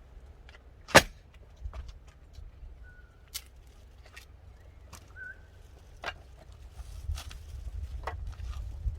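One sharp, loud crack about a second in, followed by scattered fainter clicks and knocks, over a low rumble of wind on the microphone.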